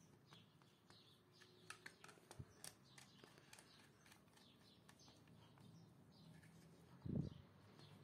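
Near silence with faint bird chirps in the background and a few small clicks. A short, soft low thump comes about seven seconds in.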